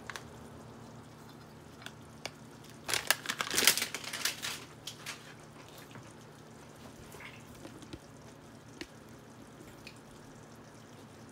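Crinkling and clicking from food packaging being handled, in a flurry about three to four and a half seconds in, with a few faint, scattered clicks otherwise.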